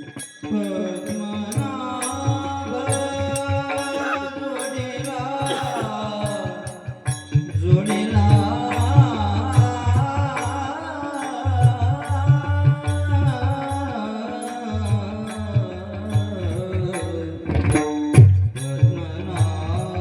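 Varkari kirtan music: a devotional sung melody over a steady drone, with hand-drum strokes and small cymbals keeping an even beat.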